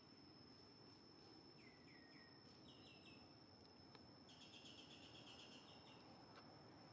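Faint bird chirps: two short runs of three falling chirps, then a rapid chirping trill lasting under two seconds from a little past the middle, over a steady high-pitched whine and low hiss.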